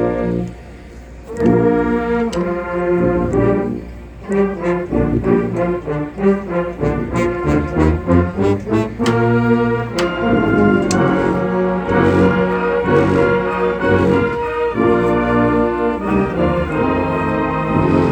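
A college marching band's brass section plays an anthem in full chords. The music breaks briefly about a second in, then resumes in phrases.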